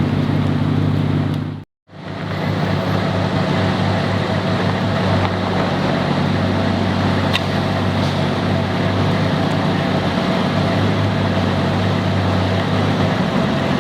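Car engine idling steadily with an even low hum. The sound drops out completely for a moment about two seconds in, then the idle carries on unchanged.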